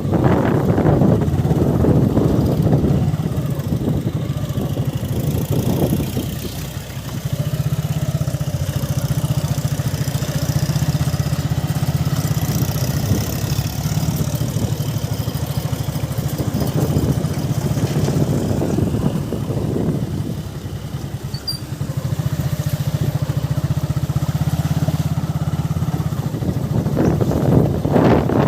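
Motorcycle engine running steadily while riding, with wind noise over the microphone; the engine sound eases off briefly twice.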